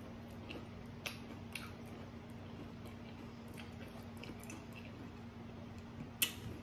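Faint chewing by a person eating, with a few scattered soft mouth clicks, over a low steady hum.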